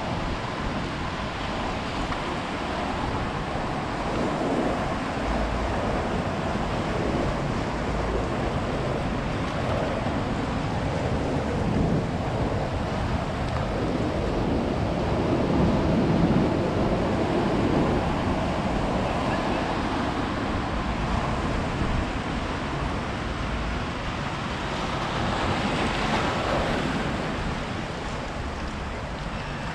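Ocean surf breaking and washing up a beach in a continuous rush, swelling louder about halfway through and again near the end.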